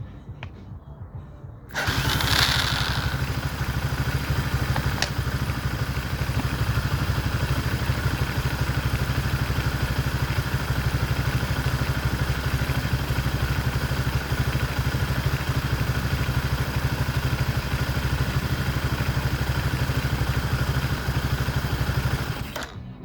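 Motoland 166FMM (165FMM) 250 cc single-cylinder four-stroke motorcycle engine on its first run after repair: it starts about two seconds in and idles steadily, then cuts off abruptly near the end.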